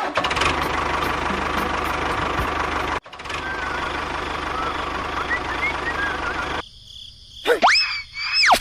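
A small engine running steadily, broken off sharply about three seconds in and then resuming, with a few faint bird chirps. Near the end a whooshing sweep rises and falls in pitch, like an editing sound effect.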